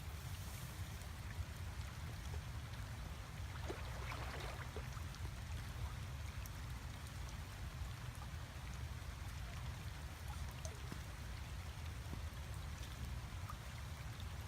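Faint dripping and splashing water over a steady low rumble, with a small cluster of splashes about four seconds in.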